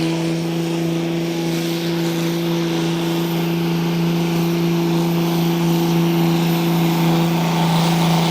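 Naturally aspirated pulling tractor's engine running hard at a steady pitch while it pulls the sled down the track, getting slightly louder toward the end.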